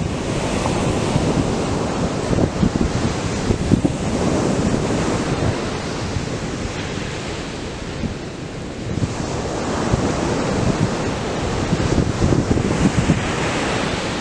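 Atlantic surf breaking and washing up the beach, with wind buffeting the microphone. The wash eases a little about two-thirds of the way through, then builds again with a fresh wave near the end.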